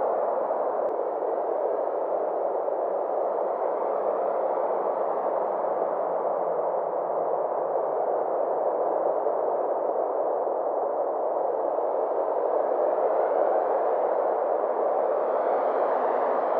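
Synthesized space-ambience drone: a steady hissing wash with a slow, sweeping shimmer, growing a little brighter toward the end.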